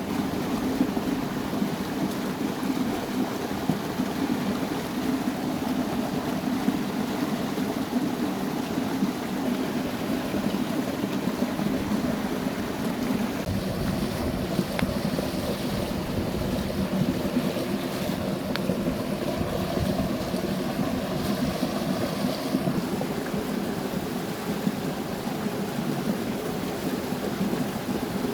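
Steady rushing noise with a few light crackles.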